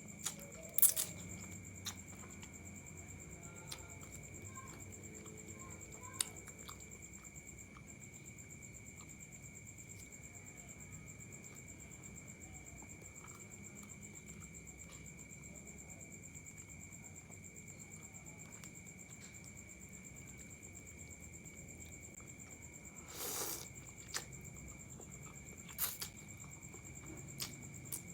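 Sparse eating sounds from a bowl of chicken noodles: a few sharp clicks and taps of utensils against the bowl, and one short noisy burst about 23 seconds in, over a faint steady background with two constant high tones.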